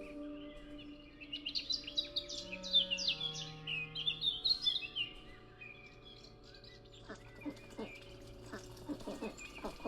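A songbird singing a quick run of high chirps and trills for a few seconds over soft, sustained background music tones; near the end short plucked or clicking notes come in.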